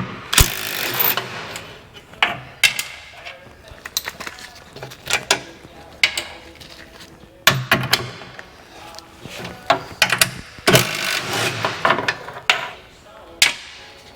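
Hand tools working on a Humvee body: irregular metal clanks and knocks, with longer scraping or rustling stretches near the start and again about eleven seconds in.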